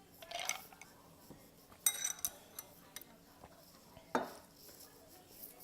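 Eating utensils clinking and scraping against a bowl of ramen: a few separate clinks, the sharpest and most ringing about two seconds in, and a duller knock near four seconds.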